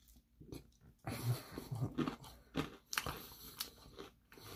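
Close-up chewing of crispy Korean fried chicken: irregular wet mouth sounds and crunches, with a few sharp clicks.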